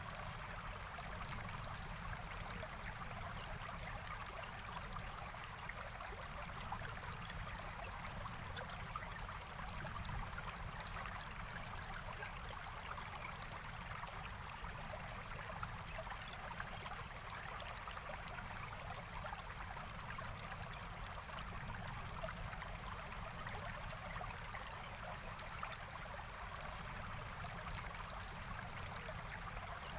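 Forest stream flowing steadily, a continuous rush and trickle of water.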